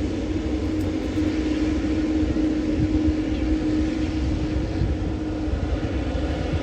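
Jet airliner engines giving a steady rumble with a constant low hum running through it.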